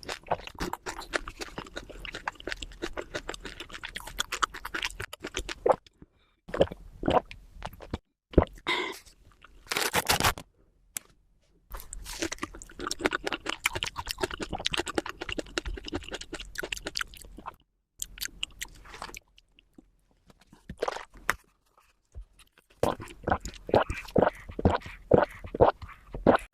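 Close-miked chewing and crunching of food, sped up to double speed, in dense rapid crackles. It comes in several stretches that cut off abruptly, with short silences between them.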